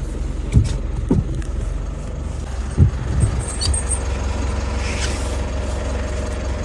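Car engine idling with a steady low rumble, with a few dull thumps in the first three seconds or so.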